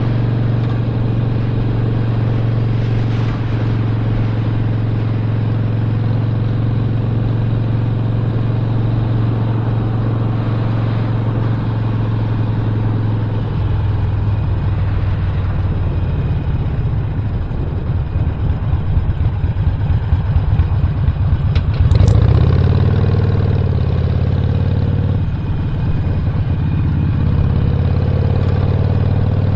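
Stage 1-upgraded Harley-Davidson Sportster Roadster's 1200 cc V-twin running on the road. It holds a steady note at first; after about fourteen seconds it turns rougher and louder as the throttle changes. There is a sharp click about twenty-two seconds in, and then it settles back to a steady run.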